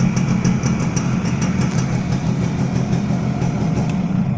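Suzuki AX100 single-cylinder two-stroke engine idling steadily, with a light rapid ticking over the top that fades out near the end.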